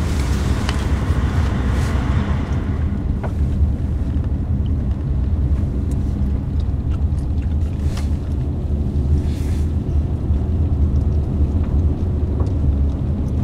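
Steady low rumble of a car's engine and tyres heard from inside the cabin while driving on a snowy road, with a lighter hiss over the first couple of seconds.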